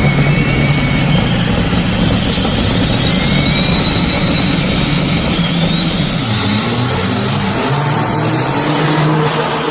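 Heavy diesel race-truck engines running hard under full throttle, with a high whine rising steadily in pitch through most of the stretch.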